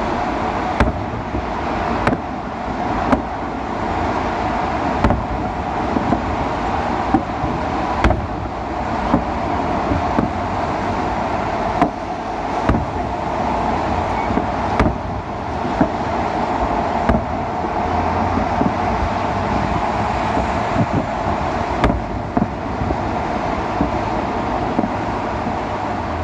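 Fireworks salute going off at a distance: sharp bangs roughly once a second at irregular intervals, over a steady background rumble like traffic noise.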